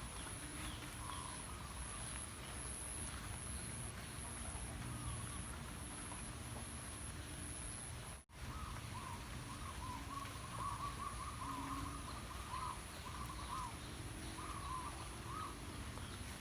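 Birds calling outdoors: low, repeated hooting notes with higher wavering chirps that grow busier in the second half, over a steady high-pitched insect drone. The sound cuts out for a moment about eight seconds in.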